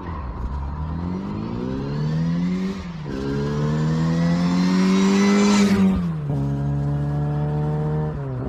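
Car engine accelerating through the gears. The pitch climbs, dips briefly about 3 seconds in at a gear change, and climbs again. It falls away about 6 seconds in and then runs at a steady, lower pitch.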